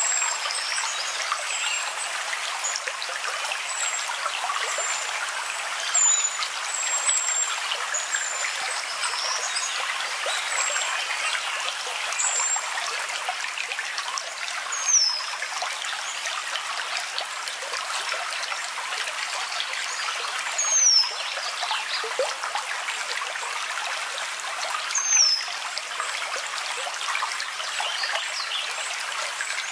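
Steady trickling of a small stream, with birds chirping over it. Short high chirps come through the first half, and about three louder calls that slide downward come in the second half.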